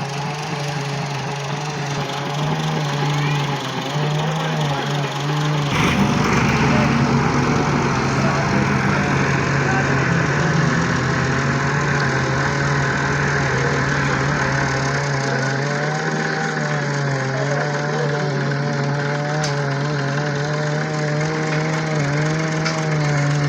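Tractor engine running steadily, with a knock about six seconds in.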